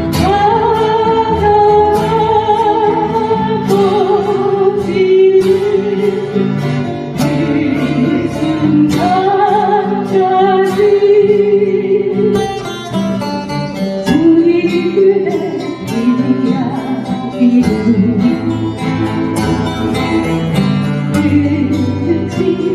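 A person singing a slow ballad with a wavering vibrato, accompanied by a guitar.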